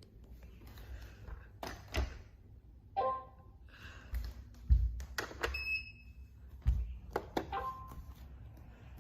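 Robot vacuums being started one after another: knocks and button clicks, with short electronic start-up chimes about 3 and 7.5 seconds in and a brief high beep about halfway through.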